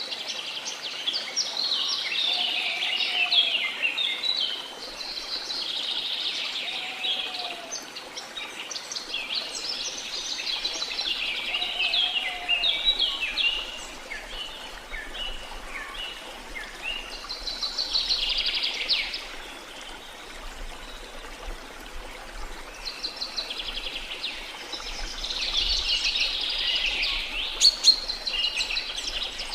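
Small songbirds singing in phrases of quick chirps a few seconds long, with pauses between, over the steady wash of the sea. A lower, short curved call repeats several times in the first half.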